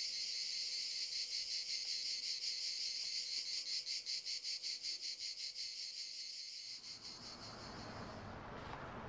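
Field insects chirring in a steady, rapidly pulsing high-pitched drone, several pulses a second. It fades out about seven seconds in as a steady, low, noisy rumble takes over.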